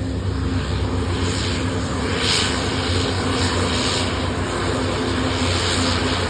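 Light propeller aeroplane's engine running with a steady drone.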